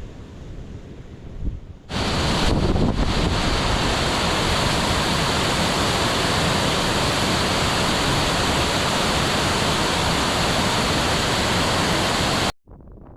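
Gale-force wind buffeting the microphone. A low rumble gives way about two seconds in to a much louder, steady blast of wind noise, which cuts off abruptly near the end.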